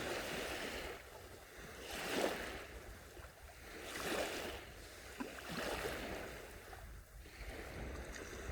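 Small sea waves washing onto a beach, each one swelling and ebbing, about one every two seconds.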